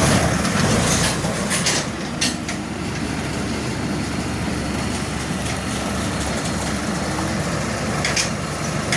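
Heavy vehicle engine running steadily, with a few short knocks about two seconds in and again near the end.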